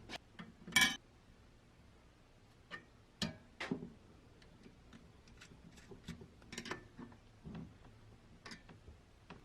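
Scattered light clicks and taps of small hard parts being handled, with one sharper clack about a second in and a few more clusters of ticks later.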